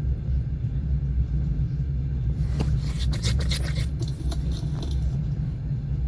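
Passenger train running on the rails, a steady low rumble of the wheels. About two and a half seconds in, a burst of rapid scraping clicks lasts a second and a half.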